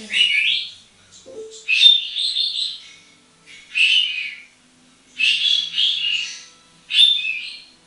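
African grey parrot calling: five separate high, chirping, whistly calls with gliding pitch, each lasting up to about a second and a half, with short pauses between them.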